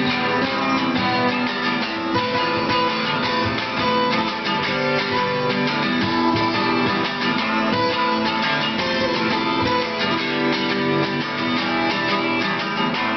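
Acoustic guitars playing an instrumental passage of a song, strummed and picked at a steady level.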